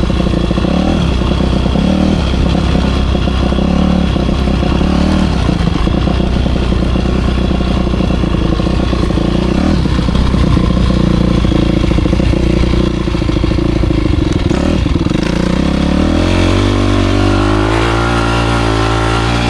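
Motocross dirt bike engine running and revving under way, the pitch swinging up and down with the throttle, then climbing steadily over the last few seconds.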